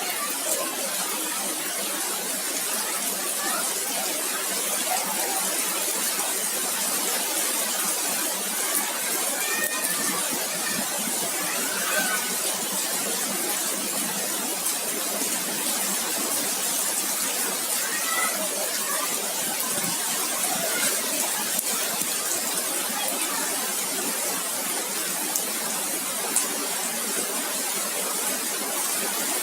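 Heavy rain mixed with hail, a steady dense hiss with scattered sharp ticks of hailstones striking.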